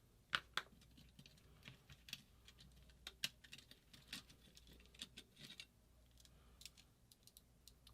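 Faint, irregular light clicks and taps of small parts being handled and set down on a workbench.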